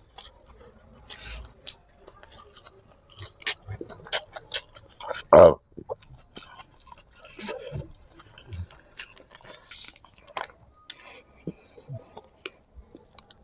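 Close-miked chewing of spicy braised pig feet: wet smacks, bites and small clicks scattered irregularly, with one loud, short voiced sound from the eater about five and a half seconds in.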